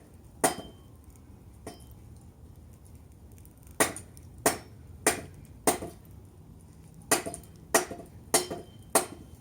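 Machete blade chopping into a log for firewood: a single strike near the start, then after a pause a steady series of strikes about every 0.6 s, some with a faint metallic ring. The machete is dull, and the blows hit without splitting the wood.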